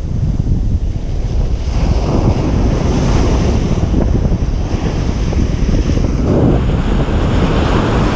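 Ocean surf breaking on a beach, a continuous wash that swells as waves break about two seconds in and again near the end. Wind buffets the microphone with a low rumble.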